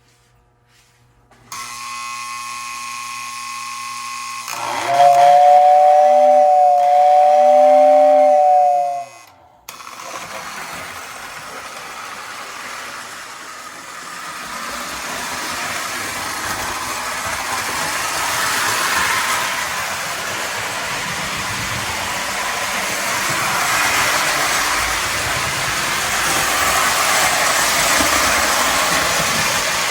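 O gauge Lionel model steam locomotive: a steady electrical hum, then its two-tone train whistle blowing for about four seconds. The locomotive then runs along the track with a rolling, rattling noise that slowly grows louder.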